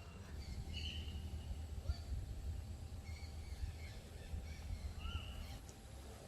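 Outdoor ambience with a few short, high bird calls, about a second in and again near the end, over a low steady rumble.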